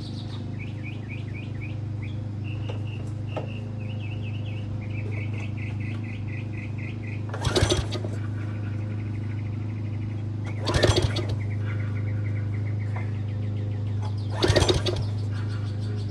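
Three pull-cord cranks of an old Titan Industrial pressure washer's choked gasoline engine, a few seconds apart, each a short burst of turning over that does not catch. Birds chirp throughout.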